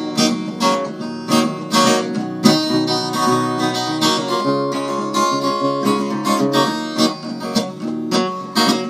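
Acoustic guitar strummed in a steady rhythm, accompanying a song between sung lines.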